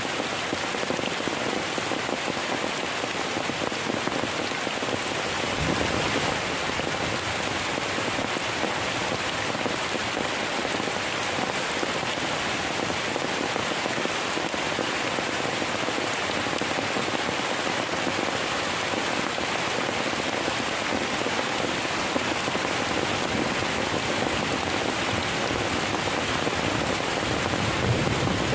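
Heavy rain pouring steadily, an even hiss of drops.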